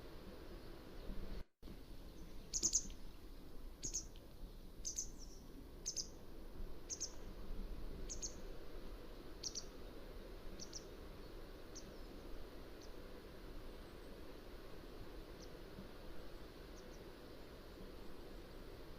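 Mountain wagtail calling: a series of short, high, sharp notes about once a second that grow fainter and stop about two-thirds of the way through, over a steady background hiss.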